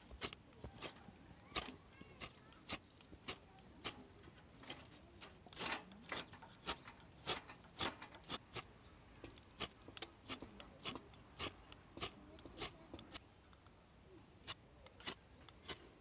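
A knife shaving curls from a piece of firewood to make a feather stick, in repeated short, sharp scraping strokes about one or two a second, with a brief pause near the end.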